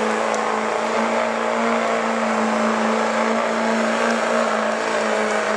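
2011 Chevrolet diesel pickup's Duramax V8 held at high, nearly steady revs under heavy load while pulling a weight-transfer sled.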